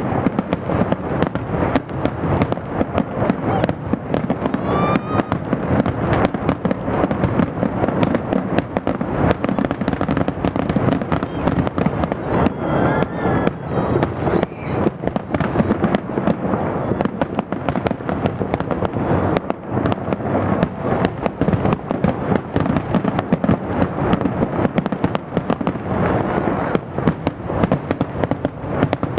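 Fireworks display going off in a dense, continuous barrage of bangs and crackles, many reports a second.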